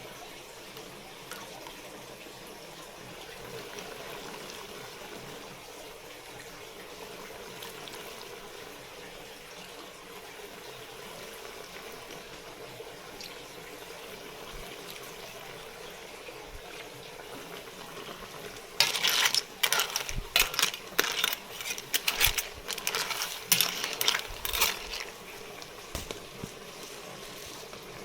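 Kitchen cooking noise: a steady watery hiss, then from about two-thirds in, some six seconds of rapid clattering and clinking of hard objects.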